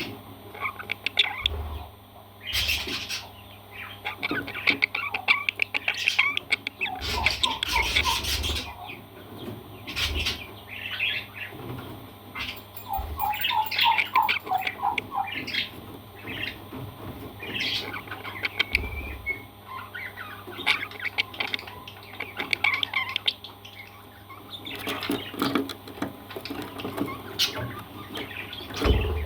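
Pet parrots calling: short squawks and chirps come at irregular intervals, with two quick runs of repeated pitched notes, one about a third of the way in and one around the middle.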